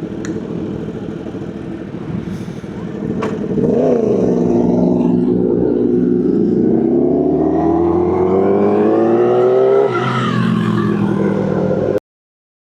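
Kawasaki ZX-10R sportbike's inline-four engine pulling away: a quick rev, then the engine note climbs steadily for about six seconds. An upshift near the ten-second mark drops the pitch, and the sound cuts off abruptly just before the end.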